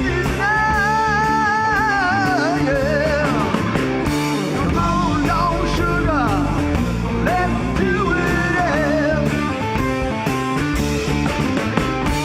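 Rock band playing live, drums keeping a steady beat under a lead melody that wavers and slides in pitch.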